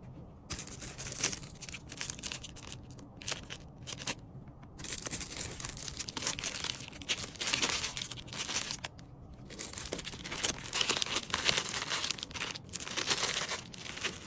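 Packaging crinkling and rustling in irregular stretches as small items are handled and packed, with brief pauses between handfuls.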